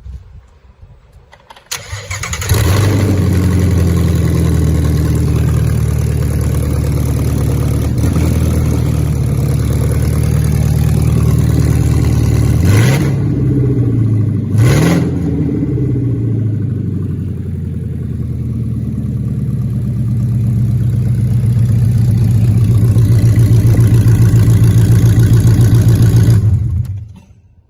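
Ford 5.2 L Voodoo flat-plane-crank V8 starting about two seconds in and running steadily. It is revved twice in quick succession about halfway through, then settles back. It shuts off shortly before the end.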